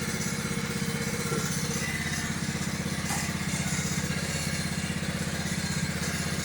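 Kohler Command 16.5 hp engine on a Craftsman lawn tractor running steadily at low speed, with an even, rapid beat.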